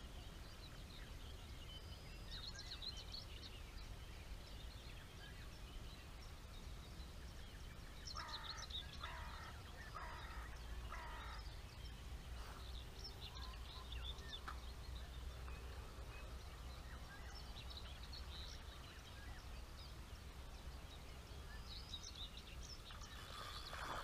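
Wild birds singing and calling, short scattered calls over a low steady rumble; about eight seconds in, one bird gives a run of about five calls in a row.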